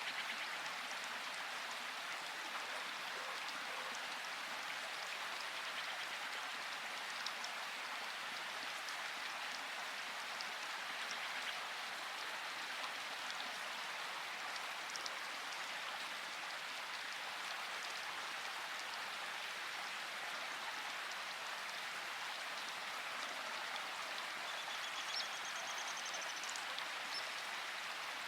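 Steady rainfall: a dense, even hiss with scattered individual drops ticking through it, and a faint, brief, high-pitched trill near the end.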